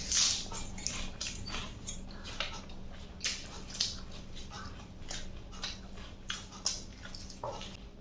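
Close-miked eating sounds of a mukbang: chewing and lip smacking on chicken and rice, with short, irregular wet clicks several times a second.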